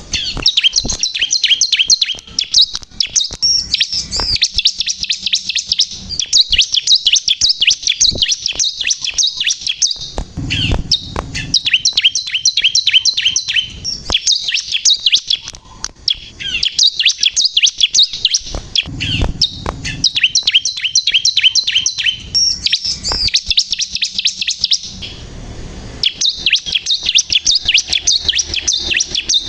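Bar-winged prinia (ciblek kristal) singing continuously: long phrases of fast, high, repeated chirps lasting several seconds each, broken by brief pauses. A few low thumps sound underneath the song.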